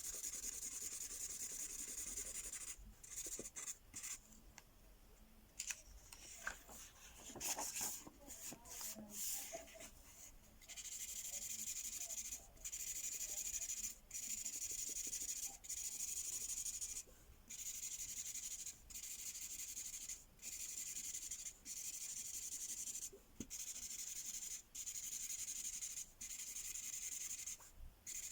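An Imagine Ink magic marker scribbling back and forth on paper, in runs of a second or so broken by short pauses. It goes quieter and more broken for a few seconds near the start, with a few soft handling sounds.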